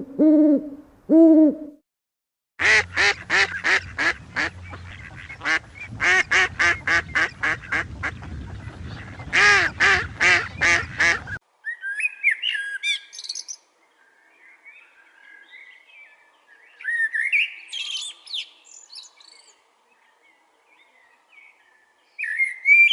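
A run of animal calls: two low hoots at the start, then about nine seconds of fast, loud, repeated harsh calls, then scattered high bird chirps.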